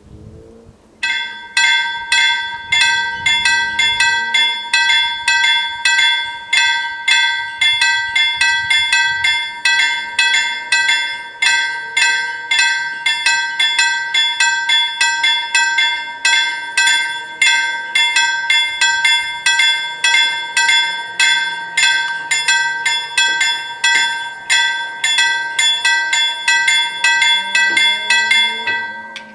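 Railway level-crossing warning bells ringing in a fast, steady rhythm of about two to three strikes a second, starting about a second in and stopping just before the end: the crossing's warning for an approaching train.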